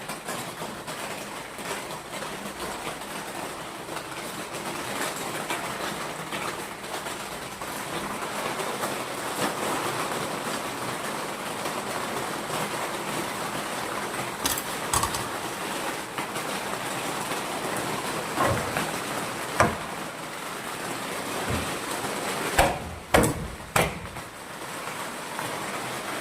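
Scattered knocks and clicks of tools and parts being handled on an opened washing machine under repair, the loudest a few sharp knocks in the last few seconds, over a steady background hiss.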